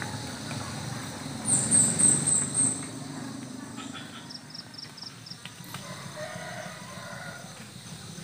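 Small birds calling over a steady low rural background rumble. About a second and a half in comes a loud, rapid run of very high-pitched notes lasting about a second; a shorter quick trill follows a few seconds later, with fainter calls near the end.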